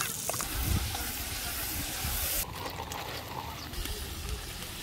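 Chopped onions sizzling in hot oil in a kazan, a steady hiss. About two and a half seconds in it drops to a softer sizzle as carrots fry and are stirred with a ladle.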